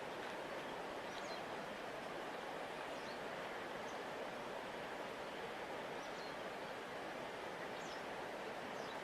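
Steady rushing of a large river flowing past the bank, with faint high bird chirps here and there.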